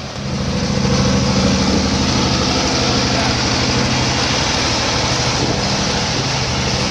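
A motor vehicle's engine running close by. It gets much louder just after the start, then holds a steady pitch and level.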